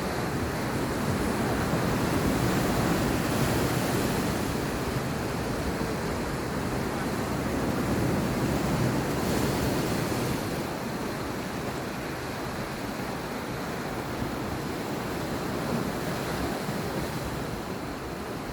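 Sea waves washing onto the shore, a steady rush of surf that swells and eases, with some wind.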